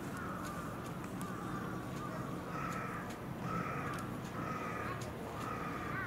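A bird calling over and over, short calls about once a second, over a steady low background noise.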